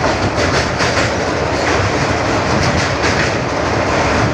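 Passenger train running at speed: a steady loud rumble with the wheels clattering over the rail joints.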